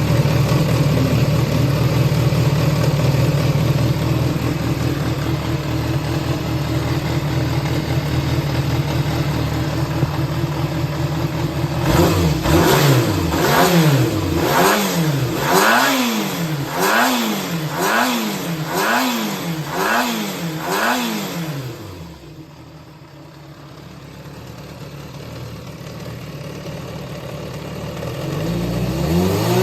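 Yamaha XJR400 (4HM) air-cooled inline-four engine idling steadily, then revved in about nine quick blips, each rising and falling in pitch, before it cuts off about two-thirds of the way through. It starts again near the end. It runs without abnormal noise, according to the seller.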